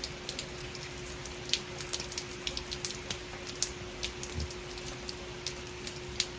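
Heavy rain falling steadily, with irregular sharp taps of drops striking a nearby surface. A faint steady hum lies underneath.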